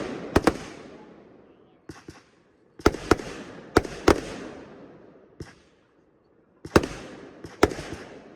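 Salute shells from a consumer firework cake bursting overhead: a string of sharp bangs, mostly in close pairs, each trailing off in a rolling echo.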